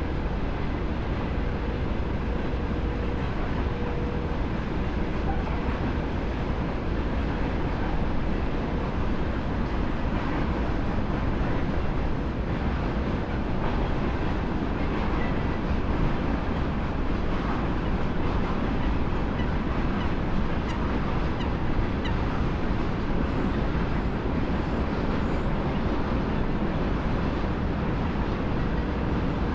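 A train passing on the railway line, giving a steady, even rumble throughout.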